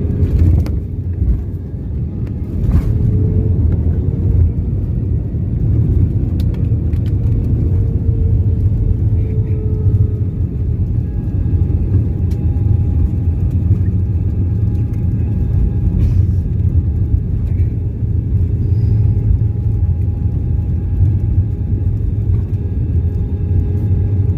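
Airbus A320 cabin noise during the landing approach: a steady, loud low rumble of engines and airflow, with faint whining tones above it, one slowly shifting in pitch over the first half and another steady higher one in the second half.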